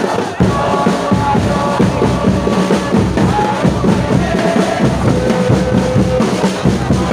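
A stadium crowd of football supporters singing a chant together over a steady pounding of bass drums.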